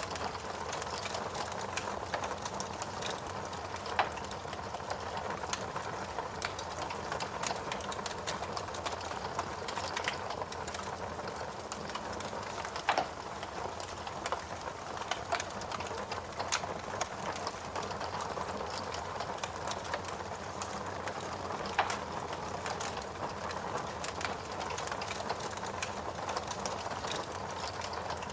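Wood burning in a fireplace: a steady hiss of flame with constant small crackles and three louder pops spread through.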